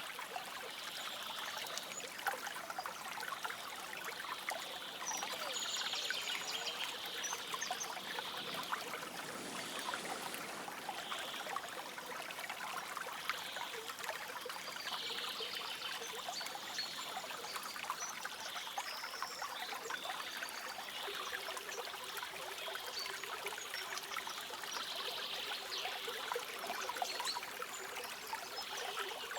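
A small river or stream flowing and trickling steadily, with short bird calls coming through now and then.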